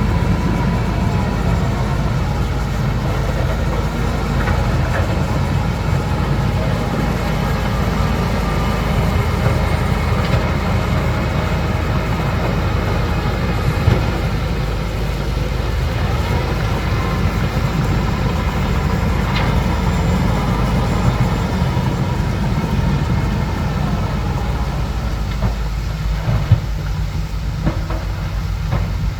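Crawler bulldozer running steadily with a deep diesel engine drone and rattling track clatter, plus a few short knocks.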